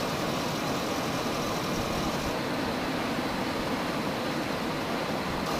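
Car engine idling under the open hood with the air conditioning running: a steady, even running noise with no distinct knocks or beats.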